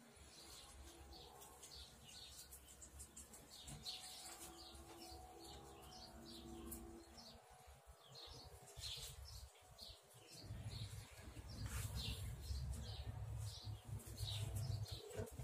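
Small birds chirping over and over, short high chirps several times a second. A low rumble comes in about two-thirds of the way through.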